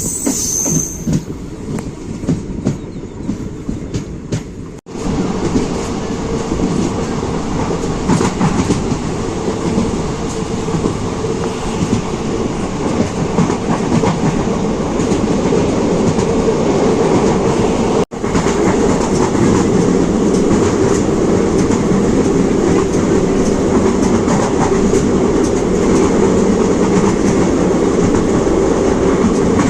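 Passenger train running on the track: wheels clatter over the rail joints under a steady rumble. There is a brief high squeal right at the start, and the sound cuts off abruptly twice, about five and eighteen seconds in, before picking up again.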